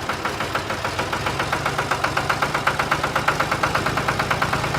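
A small engine running with a rapid, even putter of about eight to ten beats a second. It settles into a steady hum about a second in.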